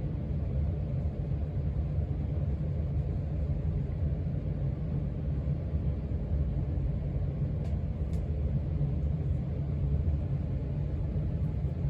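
Casablanca Stealth ceiling fan running steadily on its second speed, giving an even low-pitched hum. Two faint clicks come about eight seconds in.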